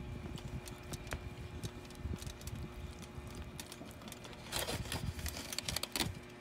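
Close-miked eating sounds: soft, irregular chewing and mouth clicks over a baked bread roll, with a short burst of crisp crackling from about four and a half to six seconds in as a slice of the crusty roll is pulled away.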